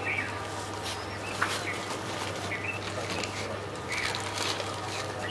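Birds chirping in short calls every second or so over a steady low hum, with a sharp click about one and a half seconds in.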